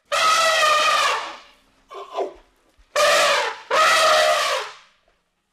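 Elephant trumpeting: three long, brassy calls, with a shorter, fainter one between the first and second.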